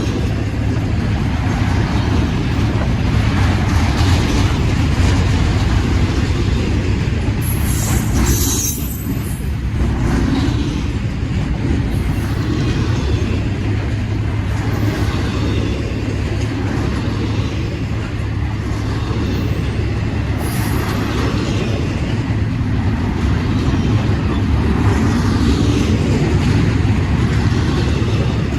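Freight train rolling past: a steady rumble of wheels on rail, with a brief high-pitched sound about eight seconds in and a shorter one about twenty seconds in.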